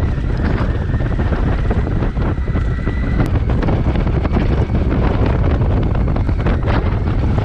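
Motorcycle riding along a dirt track, its engine running under loud wind noise on the rider's microphone.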